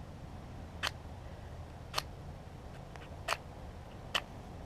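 Damp matches struck four times against the box, each a short sharp scrape about a second apart, none of them catching.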